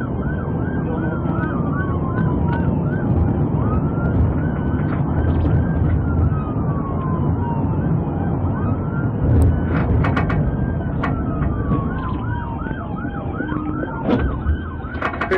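Police car siren switching between a fast yelp and slow falling wails, over heavy engine and road noise. A few sharp clicks come about two-thirds of the way through and near the end.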